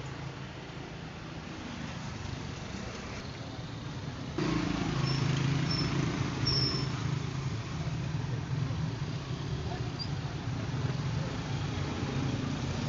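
A vehicle engine running steadily at low revs, with a sudden jump in level about four seconds in and a few brief high squeaks soon after.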